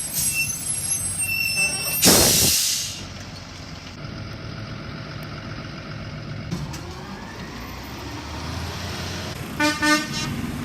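Garbage truck engine running, with a loud air-brake hiss about two seconds in and two short toots near the end.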